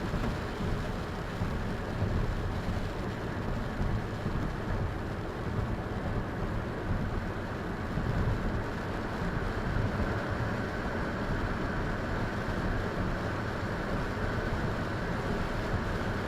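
Steady, unbroken rushing noise, strongest in the low range, of a vehicle moving through a storm, with wind and rain on the car.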